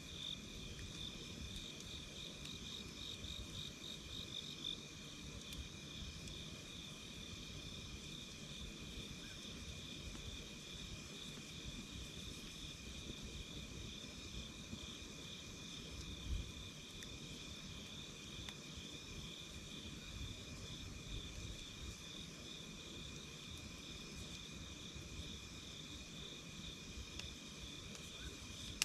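Night insects chirping steadily: a fast pulsing trill and a second, steady high note, over the low rumble of a campfire. A single soft thump comes about 16 seconds in.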